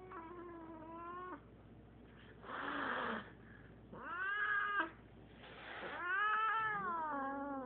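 Siamese cat yowling in three long, drawn-out wails, with two short hisses in between: an agitated cat reacting to a newly introduced cat.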